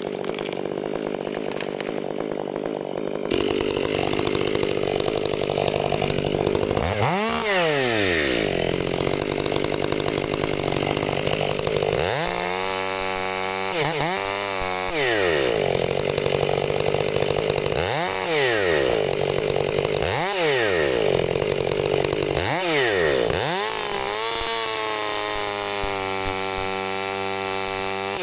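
Two-stroke gas chainsaw running at high revs and cutting wood. The engine speed dips and recovers about six times, then settles to a steadier, lower speed near the end.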